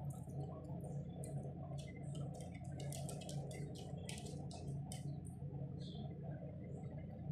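Faint, quick, high-pitched bird chirps, busiest in the middle few seconds, over a steady low hum.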